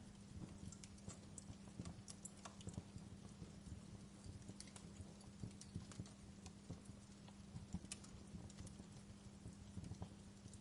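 Fireplace wood fire crackling quietly, with irregular snaps and pops of varying loudness over a faint steady low hum.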